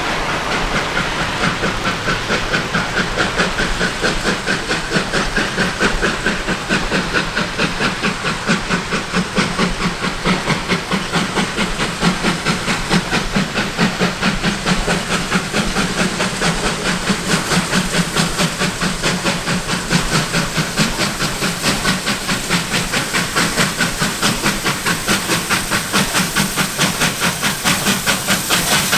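Steam locomotive working hard, a rapid, even rhythm of exhaust chuffs with hiss of steam, the beat quickening slightly as it goes.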